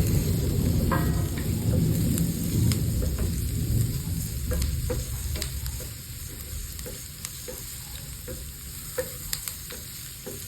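Red and green chilies frying with sautéed garlic, onion and ginger in a pan, sizzling while a spatula stirs, with many short scrapes and taps against the pan. The frying gets quieter about halfway through.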